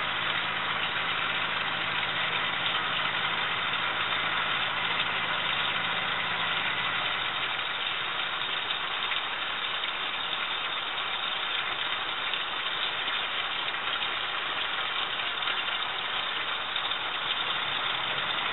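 Otomatic spin-tube dishwasher running a wash: a steady rush of water spraying and sloshing inside the tub over a low motor hum. The hum drops out about seven seconds in, and the water noise carries on.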